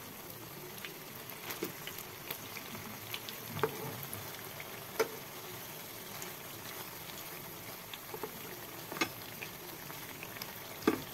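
Pakoras deep-frying in hot oil in a pan, a steady sizzle, with a few sharp taps of a slotted spatula against the pan as the fritters are turned.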